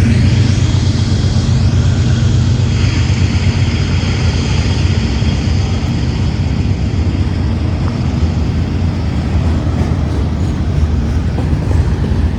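Freight train rolling past: a steady low rumble and rattle of wheels on rail. The low drone of the lead diesel locomotives fades out right at the start.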